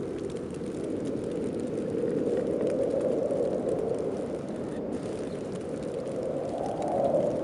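Snowstorm wind blowing steadily, swelling in gusts about two seconds in and again near the end.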